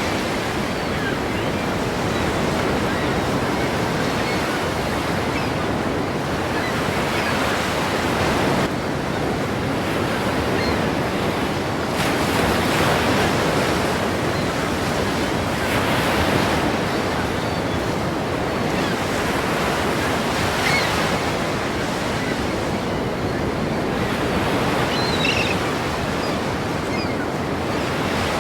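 Ocean waves crashing against a pier: a continuous roar of surf that swells every few seconds as each wave breaks.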